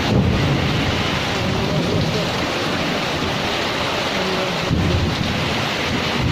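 Heavy thunderstorm rain pouring steadily, with low rumbles of thunder just as it begins and again about three-quarters of the way through.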